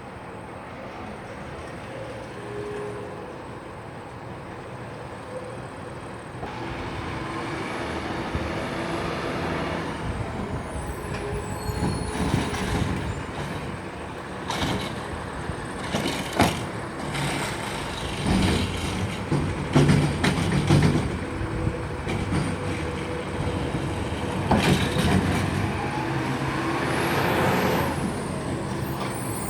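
Garbage truck engine running and revving up about six seconds in, with several loud clanks and bangs from about twelve seconds on and a few rising and falling whines.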